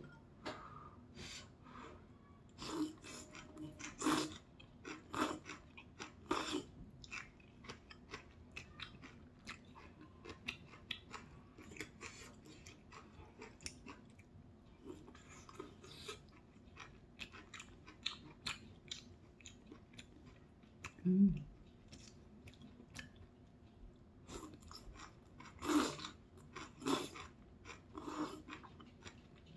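A person chewing mouthfuls of udong noodles and pan-fried jeon, with many small wet smacks and clicks, and noodle slurps near the end. A short low hum about two-thirds of the way through.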